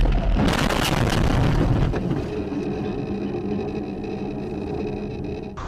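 Car driving, with steady engine and road noise from inside the vehicle. A louder rush of noise fills the first two seconds, then settles into an even hum.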